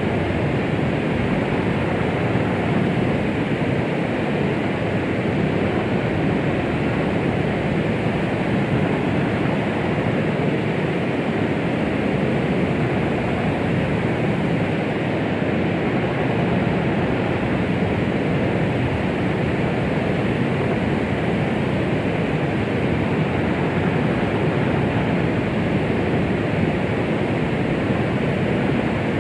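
Steady, muffled rushing noise, deep rather than hissy: white noise made to imitate the sound inside the womb, used to soothe a baby.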